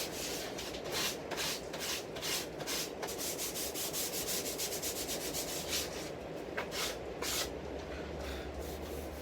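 Hand-sanding with 220-grit sandpaper over dried super glue in the cracks of a wooden cricket bat's face, to level the repair. Quick back-and-forth strokes, two or three a second, slow to a few scattered strokes after about six seconds.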